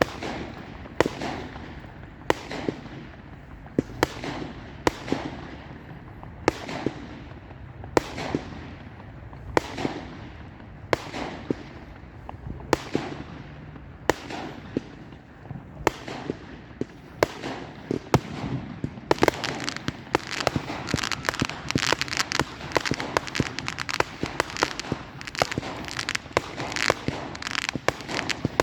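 Fireworks going off: sharp bangs at a fairly steady pace of roughly one a second, then, about two-thirds of the way through, a dense crackling barrage of rapid bangs.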